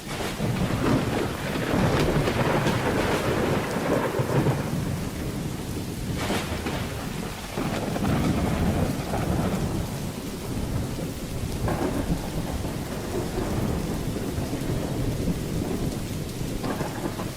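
Thunderstorm: steady rain with thunder rumbling and rolling throughout, swelling at the start, with sharper cracks about six and twelve seconds in.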